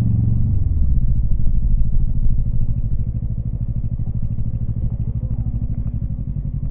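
Yamaha MT-25's parallel-twin engine dropping in revs about half a second in, then running at low, steady revs with an even pulsing beat.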